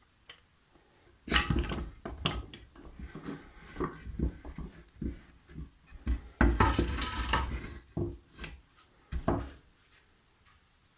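Clatter of hard objects being handled, a string of short knocks and clicks with louder bunches about a second in and again around six seconds in.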